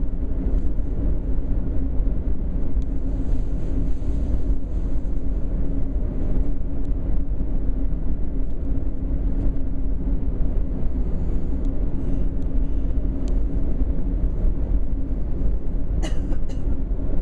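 Cabin noise inside a German ICE high-speed train running at speed: a steady low rumble with a constant low hum underneath. A couple of sharp clicks near the end.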